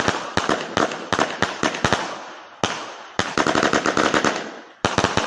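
Vulcan 'Keep Up' fireworks cake firing rapid strings of sharp reports, several a second, in three bursts with two short lulls between them.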